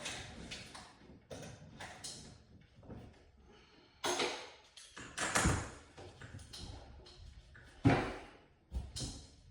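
Irregular knocks and clatter, several sudden hits a second or more apart, the loudest about four, five and a half and eight seconds in.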